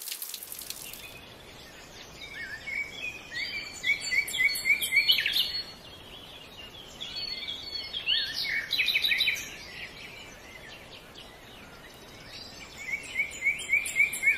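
A songbird singing in three spells of quick, repeated chirping notes over faint steady outdoor noise. A hiss of falling rain stops about a second in.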